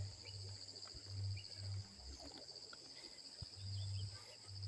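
Crickets chirring steadily in a continuous high, fast-pulsing trill, with several low dull thumps over it.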